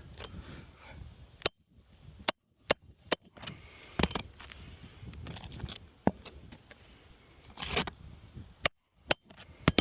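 Nailing down 3-tab asphalt shingles along the nail line: about nine sharp strikes at uneven spacing, with faint scraping of shingles between them and a longer rustle near the end.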